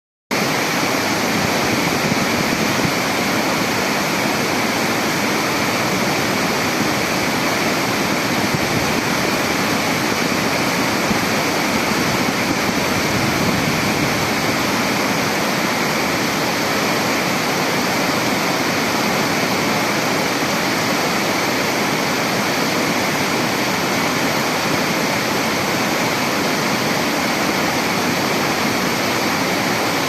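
Steady, loud rushing water, an unbroken roar of falling or flowing water.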